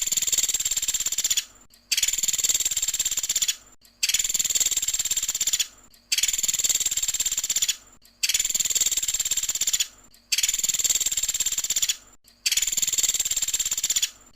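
Pelatuk sampit woodpecker giving its rapid trilling 'tembakan' call, each burst about one and a half seconds long and repeated every two seconds in near-identical copies, as a looped song recording.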